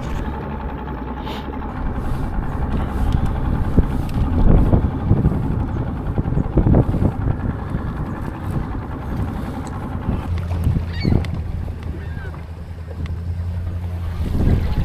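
Motorboat engine running steadily over wind and water noise. About ten seconds in, its note changes to a lower, even hum.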